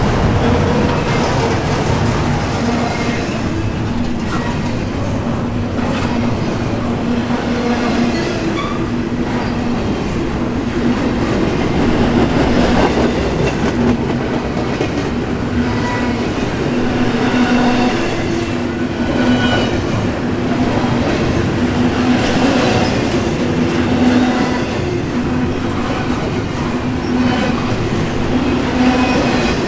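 Intermodal container cars of a freight train rolling past: a steady rumble of steel wheels on rail, with scattered clicks over rail joints and short, high wheel squeals.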